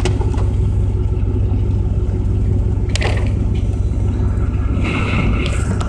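Large diesel engine of heavy mining equipment running steadily with a deep drone. A sharp click comes about three seconds in and a brief hiss near the end.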